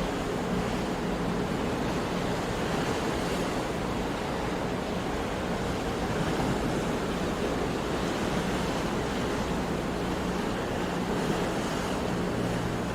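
Ocean waves washing steadily on a shore, an even wash of surf with no breaks.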